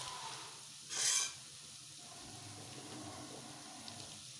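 Onions frying in hot oil in a kadhai with a low, steady sizzle; about a second in, a short, loud burst of sizzling as a handful of chopped green capsicum is dropped into the hot oil.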